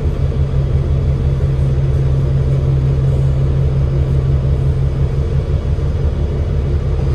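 Alexander Dennis Enviro500 MMC double-decker bus heard from on board: its Cummins L9 diesel engine runs steadily with a strong, even low hum and no change in pitch.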